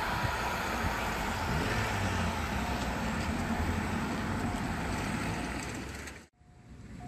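Passenger train of coaches running away along the line, a steady rumble of wheels on rail. It cuts off abruptly about six seconds in.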